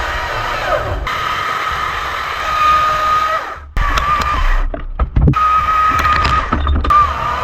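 Chainsaw running at high revs, its whine dipping in pitch now and then as it bites into the wood, with a few sharp knocks in the middle. The sound breaks off abruptly a few times.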